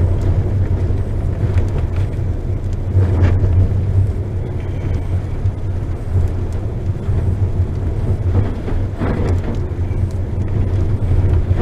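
Inside a vehicle driving on a wet dirt road: a steady low rumble of engine and tyres, with a couple of brief louder noises about three and nine seconds in.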